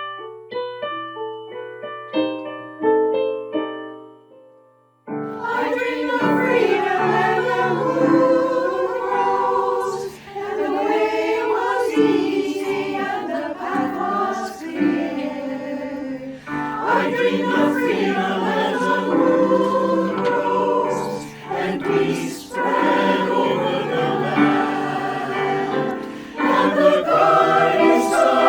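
Choir singing with piano accompaniment. It opens on a short passage of single piano notes, then the full choir comes in suddenly about five seconds in.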